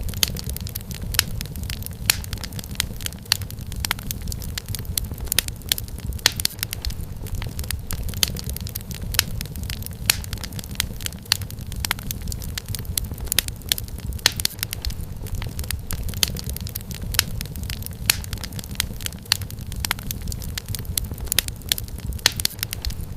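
Wood fire crackling steadily in a fireplace: many irregular sharp pops and snaps over a low, even rumble of the burning logs.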